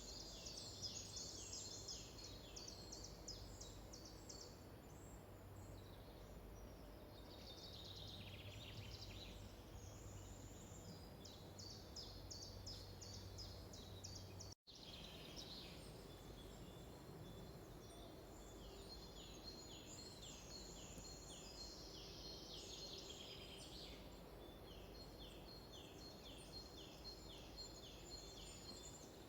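Faint songbirds singing, several birds overlapping in quick series of short falling notes, over a faint low hum in the first half. The sound cuts out for an instant about halfway through.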